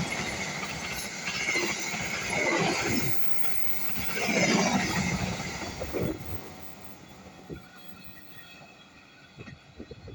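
Passenger train cars rolling past at speed, wheels rumbling and clattering over the rails in swells, then fading away over the last few seconds as the train moves off. A few short knocks near the end.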